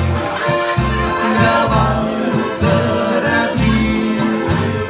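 Live band playing a waltz without vocals: bass notes on a steady beat with sustained melody notes above.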